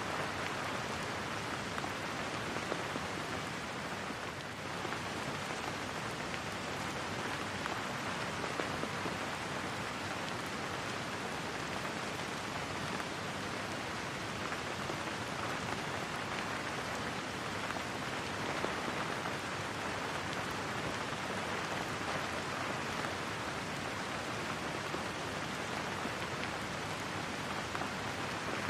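Steady rain falling and pattering on a surface, an even, unbroken hiss with a brief slight dip about four seconds in.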